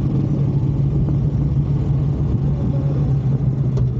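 Harley-Davidson V-twin motorcycle engine running steadily while riding, with an even low-pitched drone.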